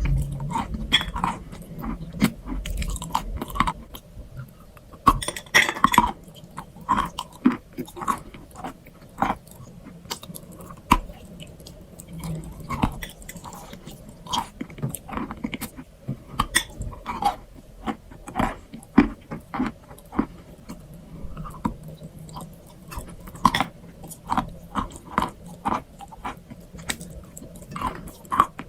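Close-miked chewing of a crunchy strawberry crunch treat: a dense run of sharp, brittle crunches several times a second, with a louder burst of crunching about six seconds in.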